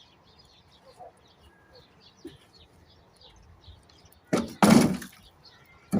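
Faint small-bird chirping, then about four seconds in a loud noisy clatter or scrape in two quick bursts, under a second in all, and a sharp click near the end.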